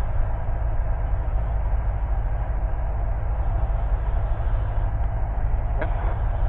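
Steady drone of a light single-engine Cessna's piston engine and propeller in flight, heard from inside the cockpit. A brief click comes a little before the end.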